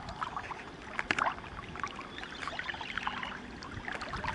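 Water splashing and trickling lightly, with many small irregular splashes and drips.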